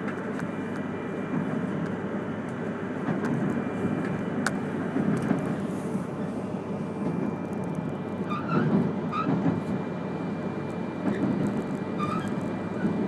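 Running noise of an E3-series Shinkansen train heard from inside the passenger cabin: a steady rumble of wheels on rail, with a few short high squeaks in the last third.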